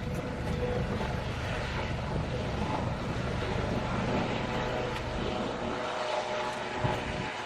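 Aircraft engine running with a steady drone and a low hum, its lowest part fading after about six seconds.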